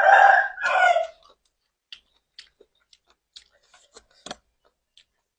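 A rooster crowing, ending about a second in, followed by sparse soft clicks of someone eating noodle soup with vegetables.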